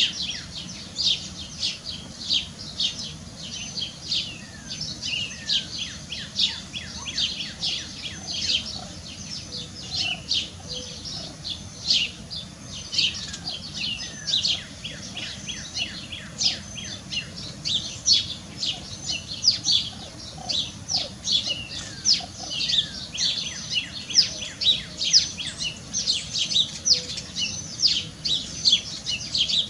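Birds chirping, a dense, continuous run of short, high, falling chirps.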